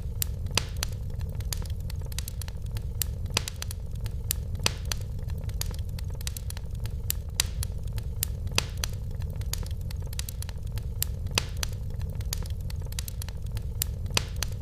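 Fire in a fireplace crackling, with frequent sharp, irregular pops over a steady low rumble.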